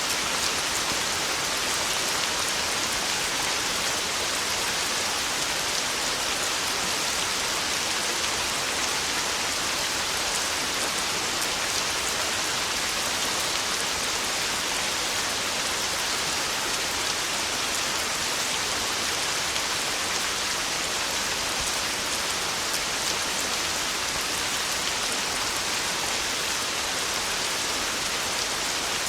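Heavy rain falling steadily on a tin roof: a dense, even hiss of countless drop impacts that holds at one level throughout.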